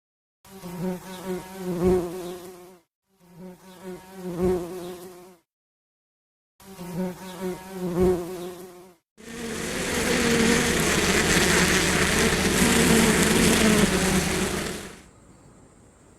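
Bees buzzing in three short bursts separated by silent cuts, then a louder, rougher buzzing passage of about six seconds that stops suddenly near the end.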